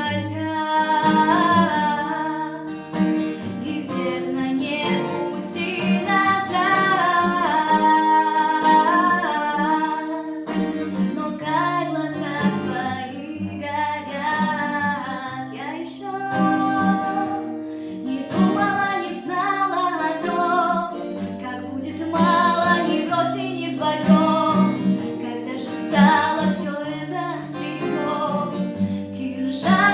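A young woman singing a Russian bard (author's) song over plucked acoustic guitar accompaniment.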